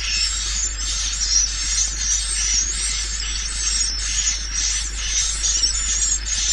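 Recorded swiftlet lure call: a continuous stream of rapid, high-pitched twittering chirps, as played through tweeters to attract swiftlets to a bird house, over a steady low hum.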